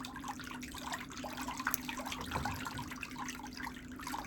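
Water in a pedicure foot bath trickling and lightly splashing, with small scattered drips and a steady low hum beneath.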